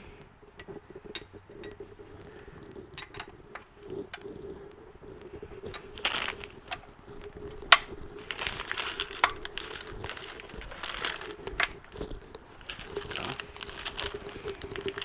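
Hand work on an engine being reassembled: small clicks and clinks of tools and metal parts being handled, with stretches of rustling in the second half and one sharp click about eight seconds in, over a faint steady hum.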